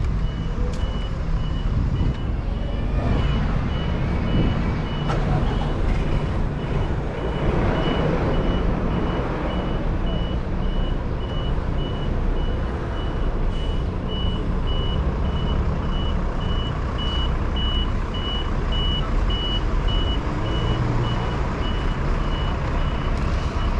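A vehicle's reversing alarm beeping steadily at a single high pitch, about once a second, over the low rumble of a large vehicle's engine and street traffic.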